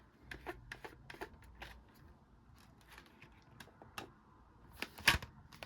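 A plastic DVD case and its discs being handled: scattered light clicks and taps with soft rustling, and one louder click near the end.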